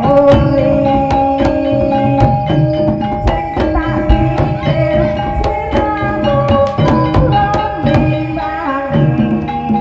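Live music accompanying an ebeg (jaran kepang) dance: hand drums and struck tuned percussion keep a steady beat under a held melodic line.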